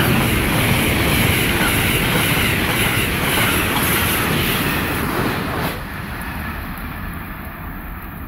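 Amtrak passenger train passing close at speed: a loud, steady rush of wheels on rail and cars going by. About two-thirds of the way through it cuts off suddenly to a quieter, duller rumble.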